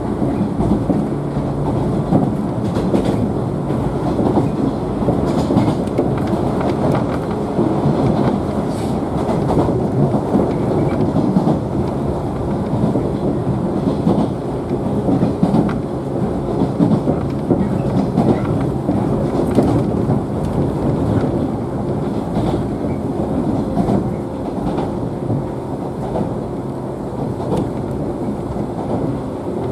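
Running noise inside a JNR 113 series electric train car under way: steady rumble of wheels on the rails with faint clicks from rail joints, and a steady hum underneath.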